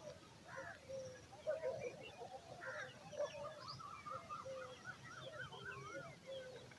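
Several birds calling at once: a busy mix of short chirps and rising and falling whistled notes, overlapping with no pause.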